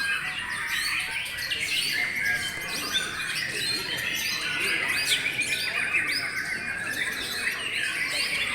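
Many white-rumped shamas (murai batu) singing at once, a dense overlapping chorus of whistles and chirps, with a rapid trill about five seconds in.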